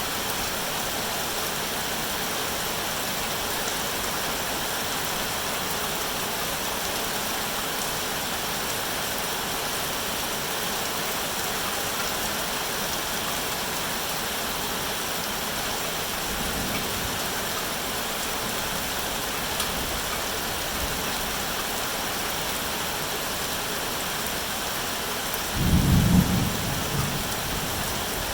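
Steady rain falling as an even hiss, with a faint low rumble of thunder a little past halfway and a louder rumble of thunder near the end.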